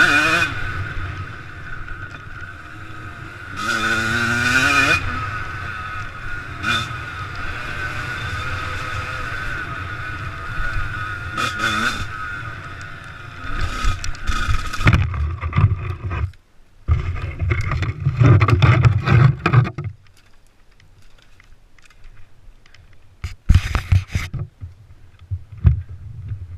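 Dirt bike engine running and revving, with a quick rising rev about four seconds in. Heavy wind rush and rumble on a GoPro's microphone follow, then the engine sound drops away after about twenty seconds, leaving a few sharp knocks.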